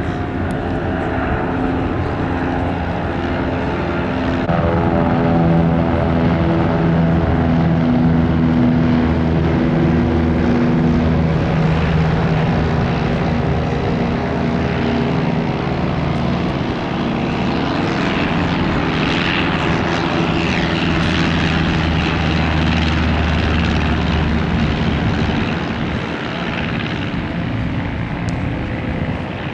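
Propeller aircraft engine running steadily in flight: an even engine note that grows louder about four seconds in and eases off near the end, as the aircraft passes.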